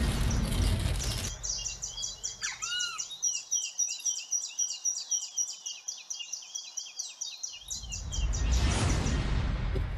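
Birds chirping in a fast, repeated run of high calls with a few sweeping whistles, framed by a loud rushing, rumbling noise that stops abruptly about a second in and swells back near the end.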